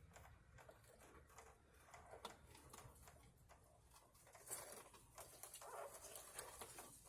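Near silence with faint scattered clicks and light rustling.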